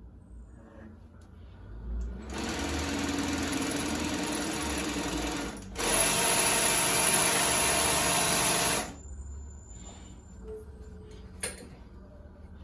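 Cylinder-arm walking-foot industrial sewing machine running at a steady speed to wind the bobbin: one run of about three seconds, a brief stop, then a louder run of about three seconds that stops abruptly. A short click follows near the end.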